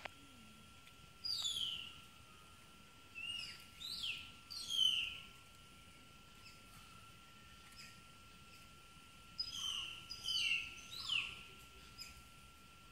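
Wild birdsong: short whistled calls that glide down in pitch, coming in three clusters, about a second in, around four to five seconds, and again around ten to eleven seconds. A faint steady high tone runs underneath.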